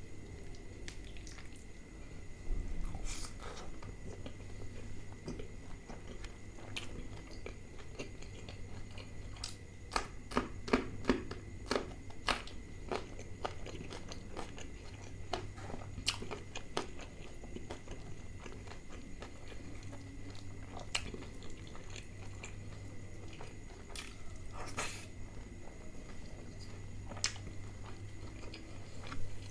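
Close-miked eating: wet chewing and biting of flaky lachha paratha dipped in butter chicken curry, with crisp crunches and lip smacks scattered throughout, thickest about ten to twelve seconds in. A steady low hum runs underneath.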